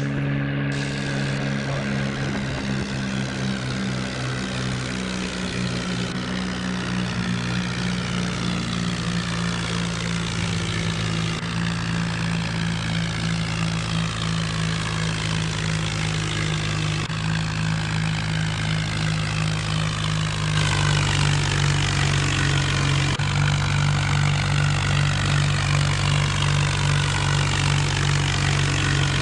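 HMT tractor's diesel engine running steadily at a constant speed, growing louder about twenty seconds in.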